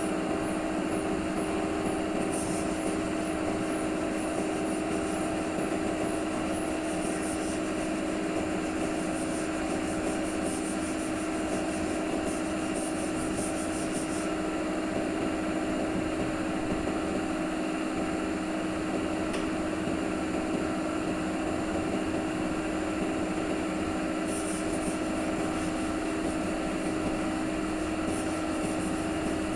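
A power tool's motor running steadily at constant speed with a strong, even hum, stopping abruptly at the end.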